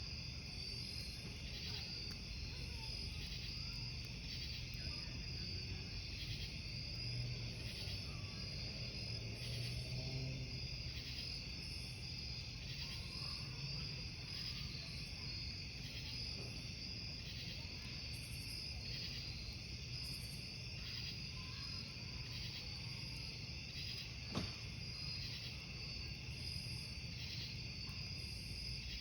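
Crickets chirping in a steady, evenly pulsing chorus over the low hiss of a wood campfire. A single sharp pop of burning wood comes about three-quarters of the way through.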